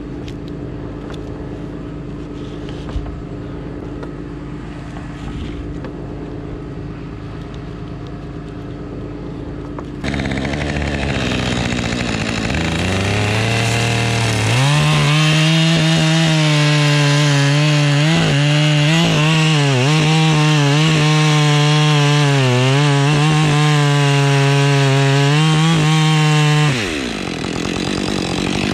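An engine idles steadily for about ten seconds. Then a gas chainsaw revs up and runs at full throttle, its pitch wavering and dipping as it cuts through wood. Near the end it eases off briefly and revs up again.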